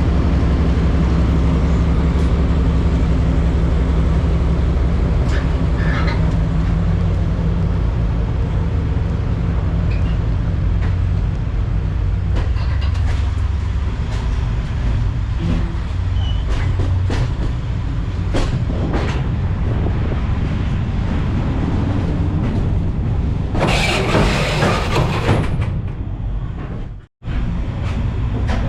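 DPL-1 diesel train running, heard on board: a steady low diesel drone with scattered sharp clicks and knocks from the wheels and car. About 24 seconds in comes a loud hiss lasting about two seconds, and the sound cuts out for a moment shortly before the end.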